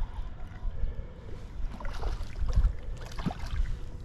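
Wind buffeting the microphone: a low rumble that swells and drops in gusts, with a few faint short sounds in the second half.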